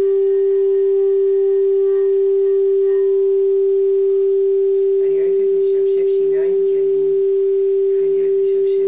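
A single steady pure tone, held unchanged and loud, with faint overtones that fade after about three seconds. Faint voices can be heard underneath from about halfway.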